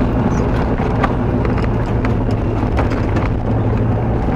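TU4 narrow-gauge diesel locomotive running with a steady low engine drone, overlaid by irregular sharp clacks and rattles.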